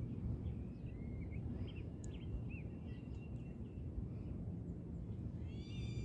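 Birds chirping with short scattered calls over a steady low rumble. A louder, harsher call with several overtones starts near the end.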